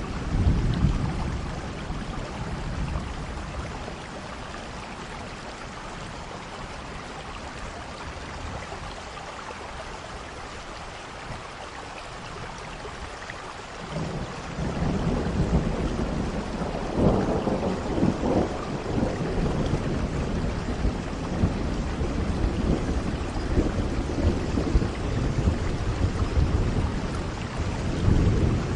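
Steady rain with rolling thunder: a low rumble dies away in the first few seconds, and about halfway through a second, longer rumble swells up, peaks a few seconds later and keeps rolling on.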